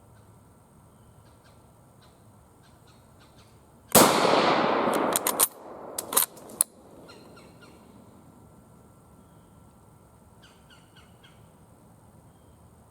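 One shot from a Japanese Type 38 bolt-action short rifle, firing 6.5×50mm Arisaka, about four seconds in. It is a sudden loud report with a trailing echo. A couple of sharp metallic clacks follow within the next two seconds, as the bolt is worked to chamber the next round.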